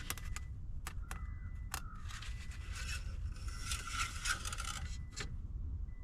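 Engine oil dipstick being wiped and slid in and out of its tube: a few light clicks, with a scraping, rubbing patch in the middle.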